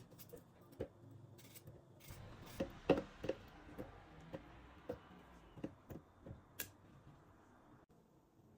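Hand food preparation with kitchen utensils: a run of light, irregular clicks and taps over a faint rustle, loudest about three seconds in.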